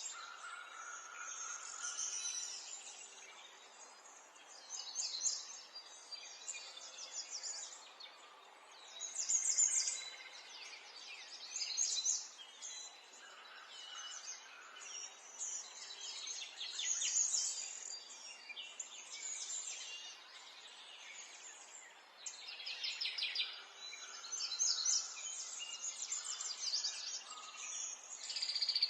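Small songbirds chirping and trilling, high quick calls that come and go in overlapping bursts every second or two over a steady background hiss.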